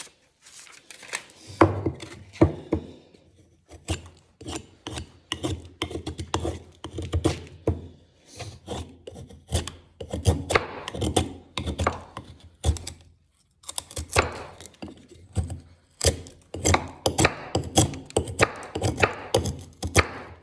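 Hollow-ground 1075 steel knife whittling wood: a quick series of short shaving strokes as the blade scrapes and clicks through the wood, with a few brief pauses between runs.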